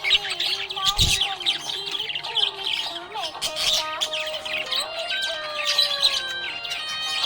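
Small pet parrots chirping and chattering in quick, dense, overlapping bursts, over background music with held notes.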